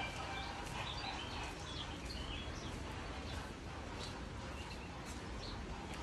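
Small birds chirping over steady background ambience, with many short chirps scattered throughout.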